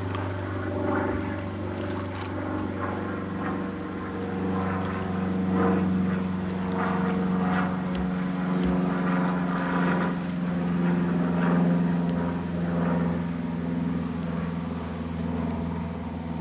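Small outboard motor running steadily, a constant low drone that grows a little stronger about four seconds in.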